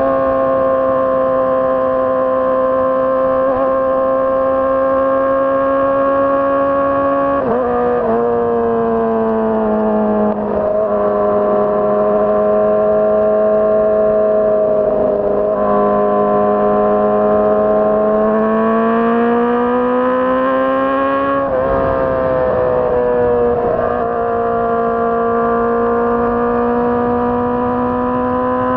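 2006 Honda CBR600RR's inline-four engine running at high, steady revs under way. The pitch drops sharply about seven seconds in, then climbs slowly and drops sharply again about two-thirds of the way through, as at gear changes.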